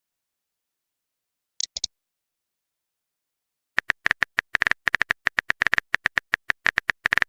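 Phone-keyboard typing sound effect: a few short clicks a little under two seconds in, then fast tapping at about nine clicks a second from about four seconds in, with dead silence between.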